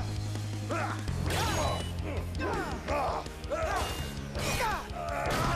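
Action-scene music with a steady, stepping bass line under a rapid string of fight sound effects: punches, kicks and whooshes, each landing with a crash.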